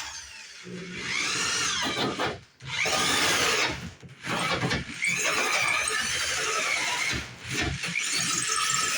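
Drill driving a 4-inch hole saw into a wooden rim joist to cut a drain-pipe hole. It runs in four bursts with short pauses between them, and its pitch sags and recovers as the teeth bite.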